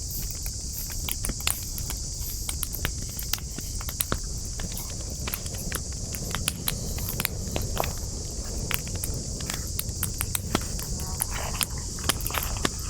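Wood campfire crackling, with irregular sharp pops and snaps from the burning wood over a low rumble of the flames. A steady high chirring of insects runs underneath.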